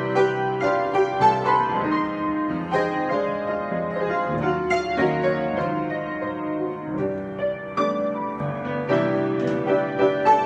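Solo piano improvisation: sustained chords under a moving melody line, with new notes struck every fraction of a second and playing without a break.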